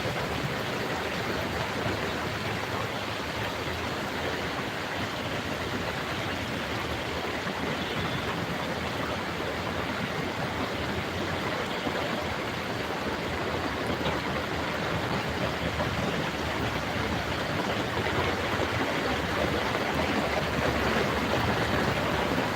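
Heavy rain pouring down, a steady even hiss that grows a little louder near the end.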